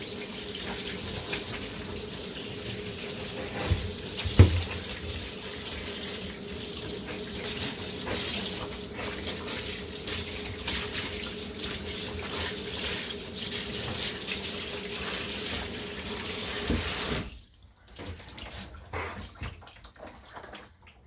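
Tap water running steadily in a bathtub, shutting off suddenly about seventeen seconds in, with a single knock about four seconds in.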